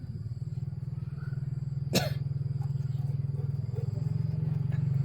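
An engine running steadily with a fast, even low throb, and a single sharp metallic clack about two seconds in.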